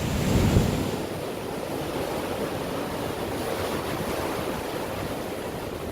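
High surf breaking and washing in a continuous roar of noise, with strong wind buffeting the microphone, heaviest in about the first second.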